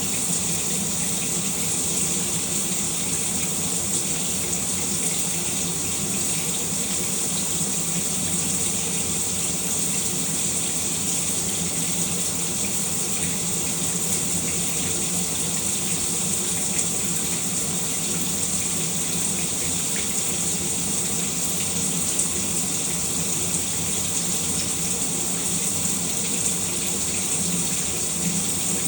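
Shower running: a steady spray of water falling, hissing evenly with no change.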